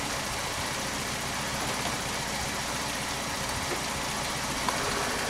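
Citroen DS four-cylinder engine idling steadily, with a light click near the end.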